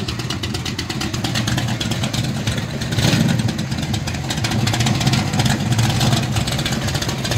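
Classic Corvette Stingray V8 running at low speed through its side-exit exhaust pipes as the car creeps forward, a rapid pulsing exhaust note that grows a little louder from about three seconds in.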